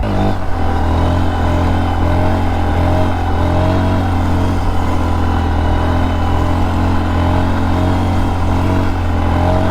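Small motorcycle's engine running at a steady cruising pace while riding, with a constant hum, small pitch wavers and wind noise on the helmet camera microphone.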